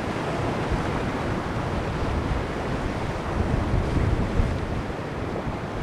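Wind buffeting the microphone in uneven gusts, over the sea washing against the rocky shore.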